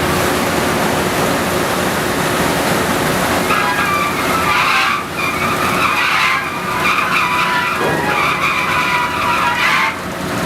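Drilling rig floor machinery running loudly and steadily. A few seconds in, a high-pitched metal squeal sets in, breaks off twice briefly, and cuts off suddenly near the end.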